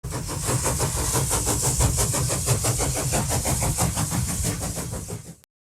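A railway locomotive running with a fast, even pulsing beat over a hiss and a low rumble; it cuts off abruptly just before the end.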